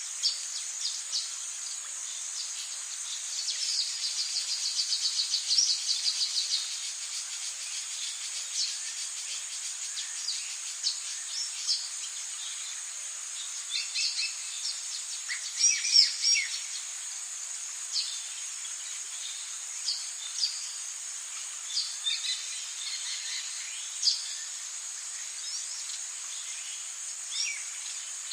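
Rainforest ambience: a steady high insect drone under scattered bird calls. A fast run of repeated chirps comes a few seconds in, and a cluster of louder, falling calls comes near the middle.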